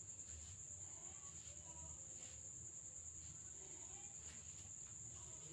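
A faint steady high-pitched tone over a low hum, with faint voices in the background.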